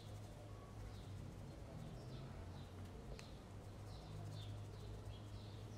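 A small bird chirping faintly, short falling high notes repeated about twice a second, over a low steady hum.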